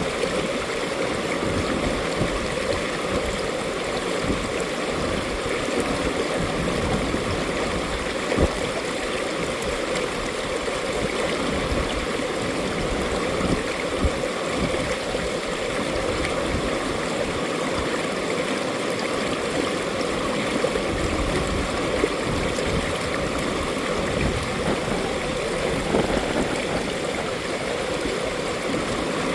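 Mountain valley stream flowing over rocks: a steady rushing and babbling of water, with a few brief louder splashes here and there.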